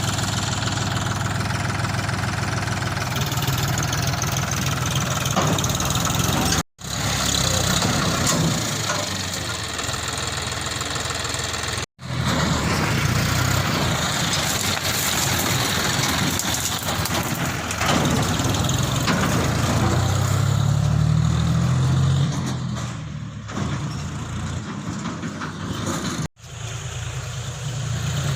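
John Deere 5045 D three-cylinder diesel tractor engine running steadily, its note shifting a little partway through. The sound cuts out abruptly three times for a split second.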